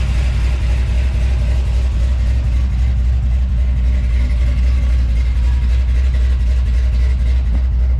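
LS-swapped V8 in an OBS Chevy pickup running steadily through true dual 2.5-inch exhaust with Flowmaster 40 mufflers dumped at the rear axle, a deep, even rumble with no revving.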